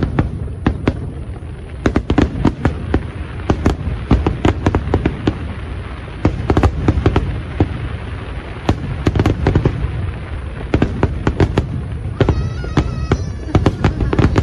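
Aerial fireworks display: a dense, irregular run of sharp bangs and crackles over a continuous low rumble of booms. Near the end a wavering high tone sounds over the bursts.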